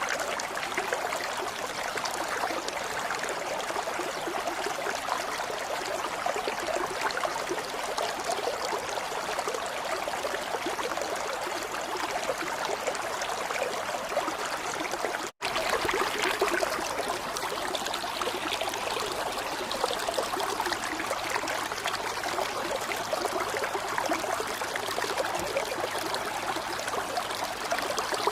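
Steady running water, a flowing stream. It cuts out for an instant about halfway through, then carries on as before.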